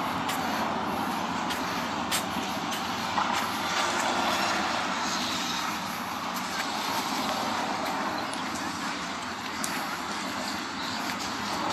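Steady rushing beach ambience of surf and sea breeze, with a few faint clicks.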